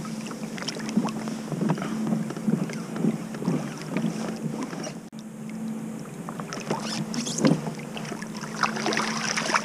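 Water splashing and dripping with irregular knocks and clatter on a kayak as a crab trotline is pulled up and run alongside, over a steady low hum.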